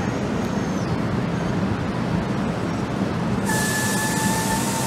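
NJ Transit bilevel commuter train rolling along the rails with a steady rumble. About three and a half seconds in, a sudden hiss and a steady high whine join in.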